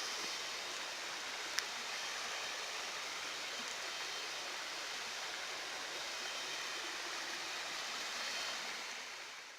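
Steady rush of water from a waterfall and hill stream, with one sharp click about one and a half seconds in. It fades away near the end.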